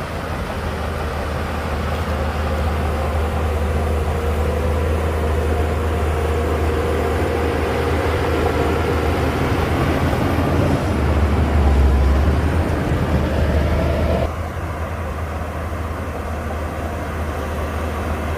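Shantui DH17C2 bulldozer's diesel engine running steadily with a low drone. It grows louder from about eleven seconds in, then drops suddenly about three seconds later.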